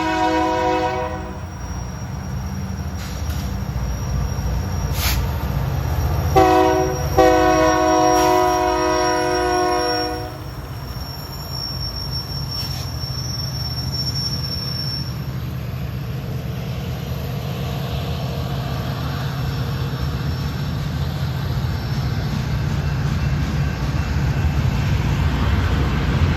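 Sound-equipped HO-scale model diesel locomotives, GP60 and GP38, playing a multi-note air horn over a steady diesel engine rumble. The horn ends about a second in and sounds again about six seconds in as a short blast and a longer one lasting about three seconds. The engine rumble then carries on alone, growing slightly near the end.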